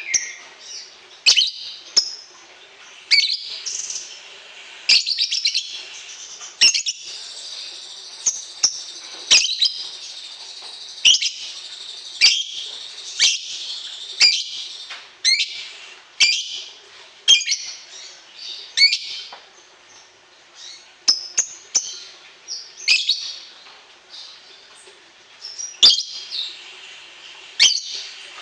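A songbird singing: sharp, high chirps repeated about every second or two over a running, high-pitched trilling chatter.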